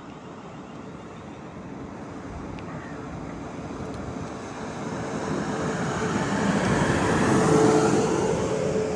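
A train approaching and passing close by. The rumble and rush grow steadily louder and peak about three-quarters of the way through, with a steady hum joining in during the second half.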